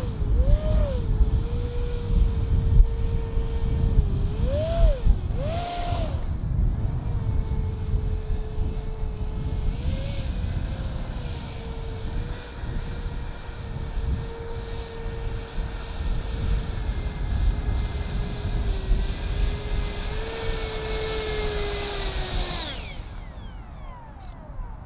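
70mm electric ducted fan of an RC jet whining at speed. Its pitch blips up and back down a few times early on, then holds nearly steady before spooling down quickly near the end.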